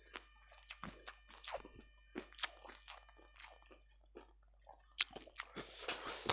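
Close-up mouth sounds of a person chewing and biting ayam geprek (smashed fried chicken): soft, irregular crunches and wet clicks, a little busier near the end.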